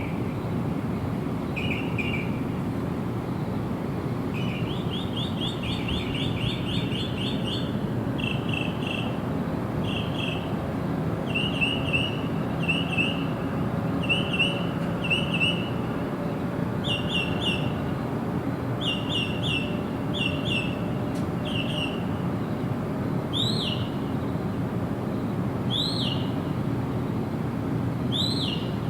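Birdsong: short chirped notes repeated in quick series, about two a second through the middle, then a slower run of single upward-sweeping notes a couple of seconds apart near the end, over a steady low rushing background noise.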